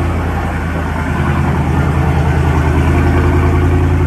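Dodge Charger Scat Pack's 392 (6.4-litre) HEMI V8 idling just after a cold start: a steady, loud, low exhaust note.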